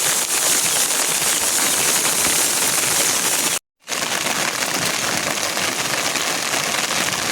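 Heavy rain falling steadily, a dense crackling hiss. It cuts out completely for a moment about three and a half seconds in, then resumes just as before.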